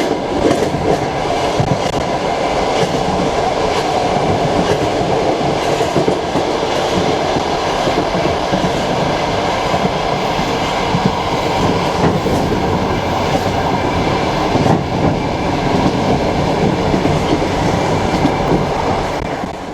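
Passenger train carriage running at speed, a steady rumble with the wheels clacking over rail joints. The sound fades out right at the end.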